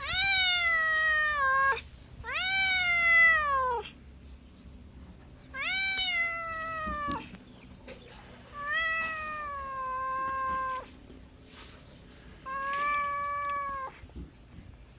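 Domestic cat meowing: five long, drawn-out meows with short pauses between, each rising and then falling in pitch.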